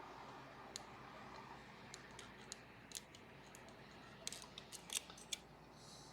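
Faint, scattered small clicks of lock picks working the lever pack of a Sargent & Greenleaf 4440 safety deposit box lever lock, coming more often in the last two seconds.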